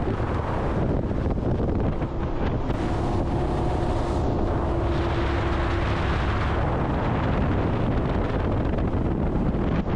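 Wind buffeting the microphone aboard a speeding jet boat, over the steady rumble of the boat's engine and the rush of water. A faint steady whine comes in about two seconds in and fades out a few seconds later.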